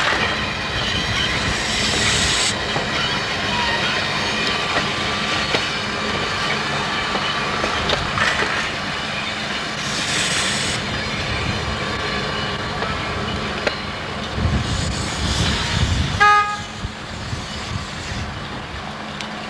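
South Shore electric passenger train rolling slowly past, wheels squealing and clicking over the rails. A brief pitched toot sounds about three-quarters of the way through, and the train noise eases as the last car moves off.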